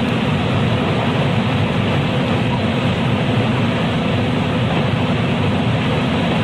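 Steady running noise heard inside a JR West 223 series electric motor car at speed: an even rumble of the wheels on the rails with the hum of the car's traction equipment.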